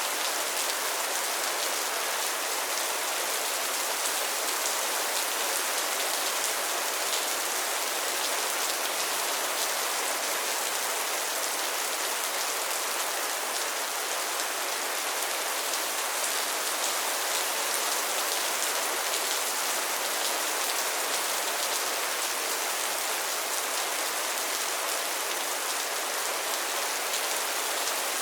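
Steady rain falling on a pond and its lily pads, a dense even patter of drops hitting water and leaves.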